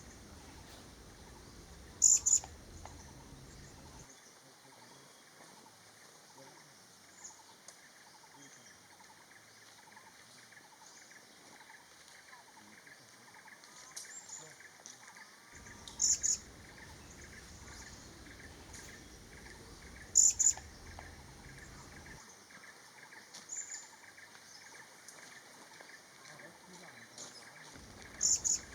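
Vernal hanging parrot calling: a high, short two-note call, the "see-sip" that Thai birders render as "sii-sip", heard four times several seconds apart.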